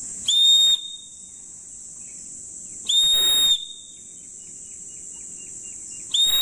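Survival whistle blown in short, shrill blasts about three seconds apart, the third starting just before the end: the three-blast reply that rescuers give to the six-blast international whistle distress signal. Insects buzz steadily throughout.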